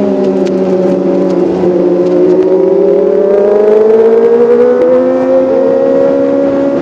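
Kawasaki ZX-25R's 250 cc inline-four engine and exhaust running steadily at high revs. The note sags a little, then climbs gradually and levels off near the end.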